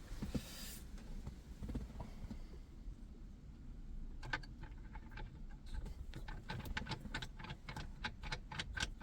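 A run of quick, light clicks starting about four seconds in and coming faster toward the end, as of hand tools being handled.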